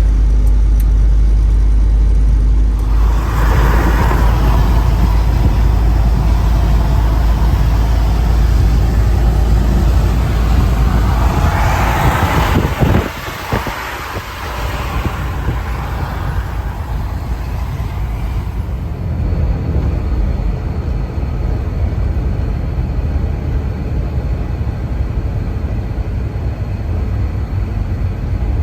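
Vehicle driving on a snowy highway, heard from inside: a steady low engine and road rumble with tyre hiss. The hiss swells twice, about 4 s and 12 s in, and the rumble drops off sharply about 13 s in, then carries on more quietly.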